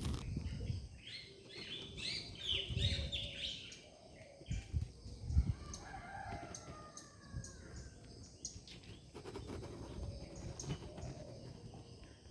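Several birds chirping and singing together, with a rooster crowing partway through. A few low thumps are mixed in.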